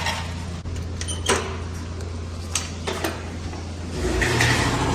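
An engine running steadily, with a few sharp metallic clicks and knocks. About four seconds in, a louder engine sound takes over.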